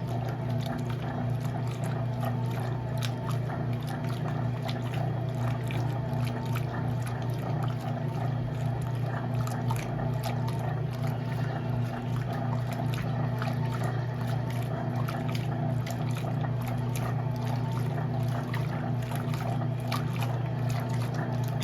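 Electrolux LE06DBD top-load washing machine running, with water rushing and splashing over a steady low hum.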